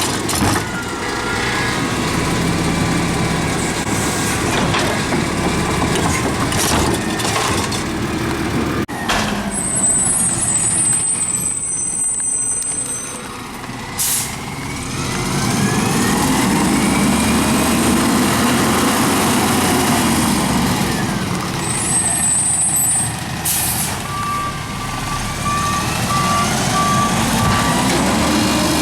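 Garbage truck's diesel engine running and revving up and down, with several short air-brake hisses and a reverse alarm beeping near the end.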